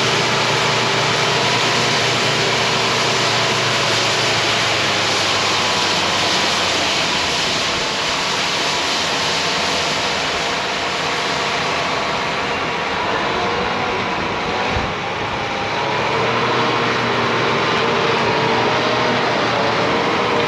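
Heavy diesel machinery running steadily, a continuous mechanical drone with faint steady whining tones.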